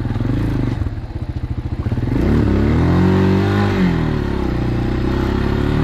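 CrossFire 250 dirt bike engine running while being ridden: it chugs at low revs, then revs up about two seconds in and holds the higher revs.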